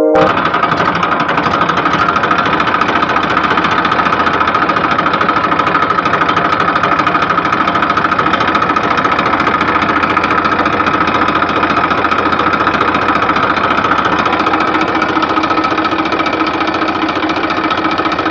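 Mini tractor engine running steadily with a rapid, even knocking beat.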